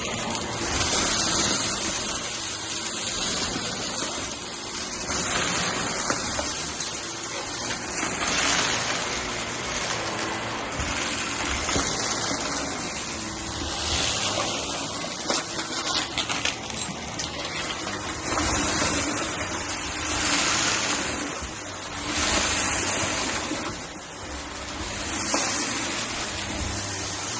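Upright vacuum cleaner running on carpet, sucking up crunchy cereal debris. The noise swells and falls with each push-and-pull stroke, about every two seconds, with a burst of rattling clicks from debris going up the machine about two thirds of the way in.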